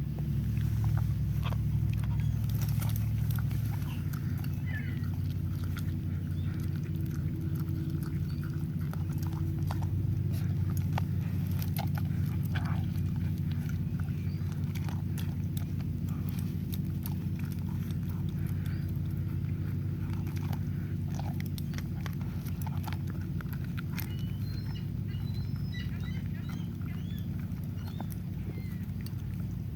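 A greyhound chewing and crunching pizza, with many short sharp clicks and crunches, over a steady low hum.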